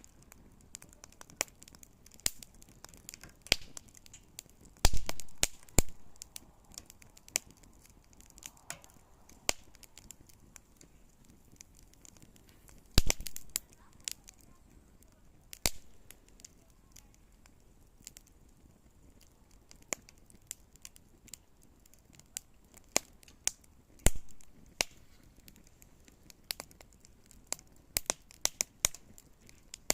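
Small wood campfire crackling, with irregular sharp pops and snaps and a few louder cracks spread through.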